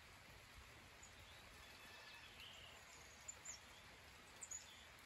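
Faint, steady hiss of light rain, with a few short, high bird chirps in two quick pairs in the second half.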